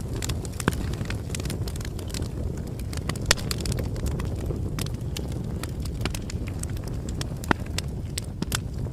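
Crackling bonfire: a steady low rumble of burning wood with irregular sharp pops and snaps, a few louder ones.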